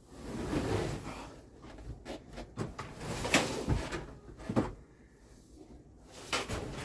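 Scraping and a few sharp knocks of a hand tool working heavy, wet chicken manure and bedding off a wooden coop floor.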